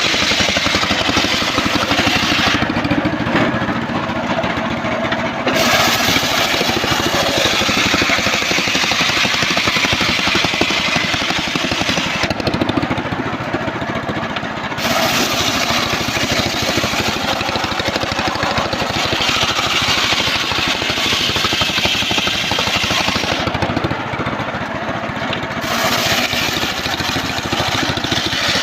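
Engine-driven home-built circular sawmill running continuously while sawing trembesi timber. Its high hiss drops away for two or three seconds about every ten seconds.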